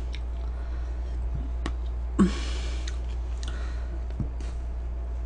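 A few faint clicks and a brief rustling noise about two seconds in, over a steady low hum.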